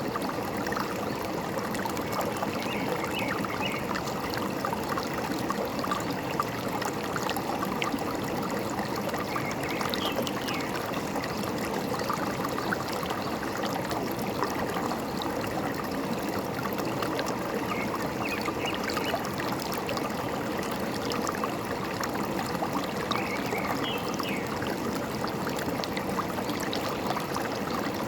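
A forest stream flowing steadily over rocks, a continuous babbling rush of water. A few brief bird chirps come through faintly now and then.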